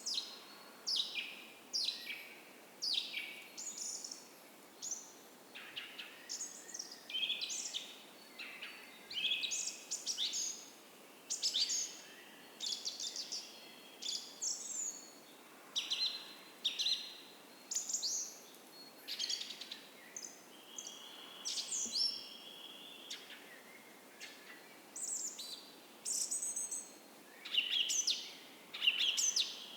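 Dawn chorus of forest songbirds: quick high chirps and short song phrases following one another about every second, with a longer held trill about two-thirds of the way in and again near the end. A faint steady creek runs underneath.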